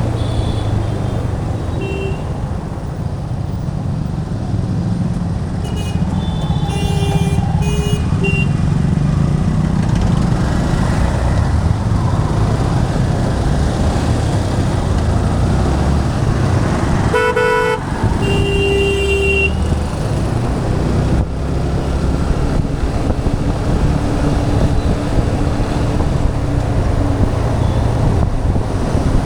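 Steady rumble of a moving Yamaha FZ 2.0 motorcycle's single-cylinder engine and wind on the helmet camera, in road traffic. Vehicle horns honk several times: short toots near the start, a cluster about six to eight seconds in, and a longer blast around seventeen to nineteen seconds.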